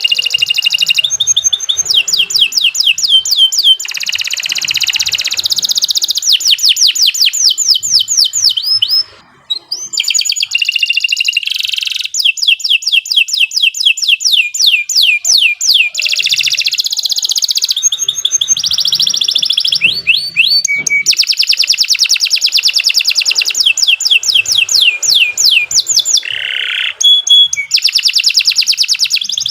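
Domestic canary singing a long, loud song of fast rolling trills, each a rapid run of repeated sweeping notes, with a brief pause about a third of the way in.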